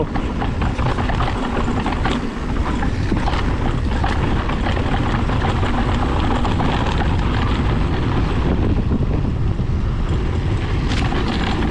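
Mountain bike being ridden fast down a dirt trail: wind rushing over the camera microphone, tyres rolling over the ground, and the bike rattling over bumps in many small knocks.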